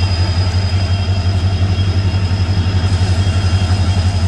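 EMD 16-cylinder 710-series two-stroke diesel engine of a WDP4B locomotive running with a loud, steady, low hum that throbs about seven times a second, with a thin steady high whine above it.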